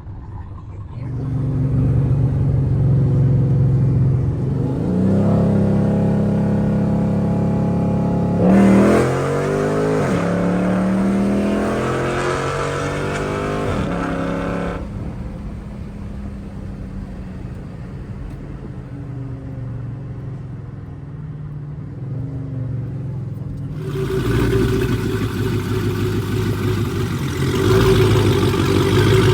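Cammed 6.1 L Hemi V8 of a Chrysler 300 SRT8 with an aftermarket exhaust, pulling away. It runs low and steady, then revs up with a rising pitch about nine seconds in and holds for several seconds before easing off, and gets louder again near the end.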